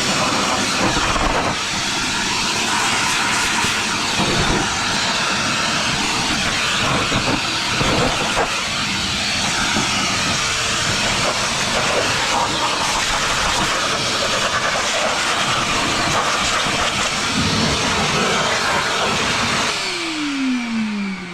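Vacuum cleaner running steadily with a loud rushing of air as it cleans debris off a riding mower. Near the end it is switched off and the motor winds down in a falling whine.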